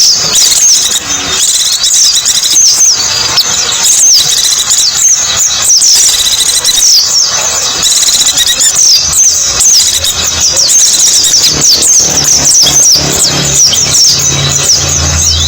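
White-eyes (pleci) singing: a fast, unbroken stream of high twittering chirps and quick downward-sliding notes. A low steady hum comes in about twelve seconds in.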